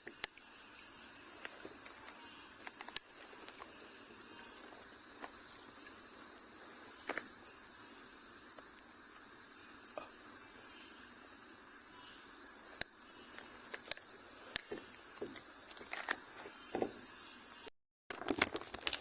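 A steady, high-pitched chorus of night insects, with faint scattered clicks. It drops out for a moment near the end.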